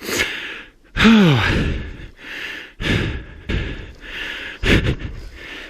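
A man breathing hard in loud gasps and sighs, roughly one breath a second, with a falling 'oh' about a second in. He is out of breath from wrestling a dirt bike after nearly flipping it on a steep hillclimb.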